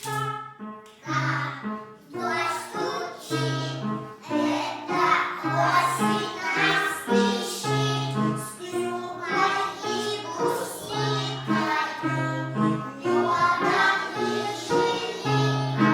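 A group of young children singing a song together to piano accompaniment.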